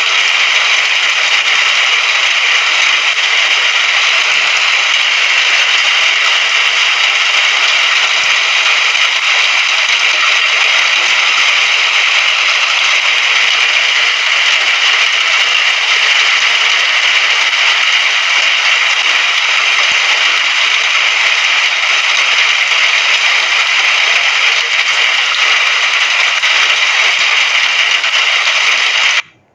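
Steady, dense hiss of rain falling, which cuts out for a moment at the very end.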